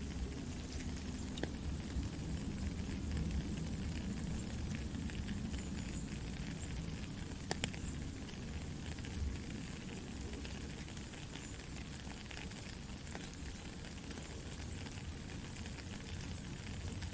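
Soft steady rain together with a crackling campfire, with a few sharper pops from the fire standing out.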